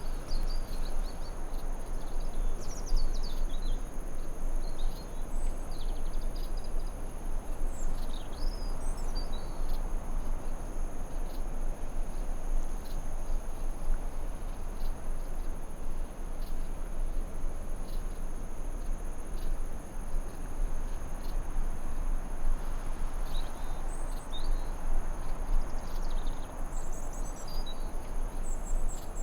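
Forest ambience over an even hiss: crickets or other insects hold a steady high drone at two pitches. Short bird chirps and twitters come through in the first several seconds and again near the end.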